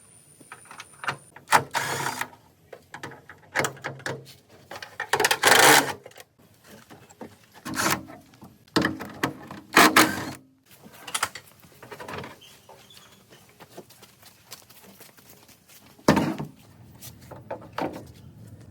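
Irregular workshop hand-work noises: short scraping or rubbing strokes and sharp knocks at uneven intervals, the loudest strokes each lasting under a second.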